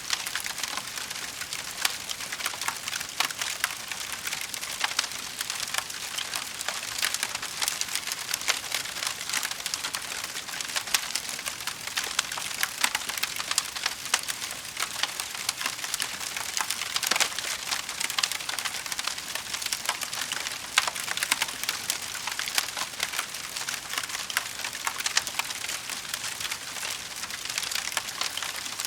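Wood fire crackling in a fireplace: a steady stream of small snaps and pops, with a few louder pops scattered throughout.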